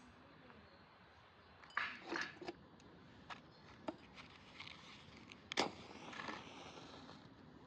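Light clatter of small objects being handled: a scatter of short clicks and knocks, a sharper knock about two-thirds of the way through, over faint background.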